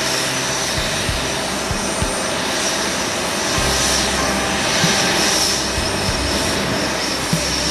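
Jet airliner engines running, a steady roar with a high whine that swells a little in the middle.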